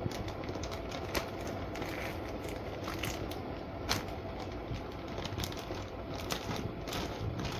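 Light kitchen handling noise: scattered small clicks and crinkles over a steady hiss, with one sharper click about four seconds in.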